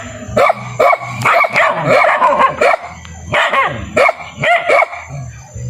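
Dog barking repeatedly in quick, yappy barks, about three a second, with a short pause about three seconds in.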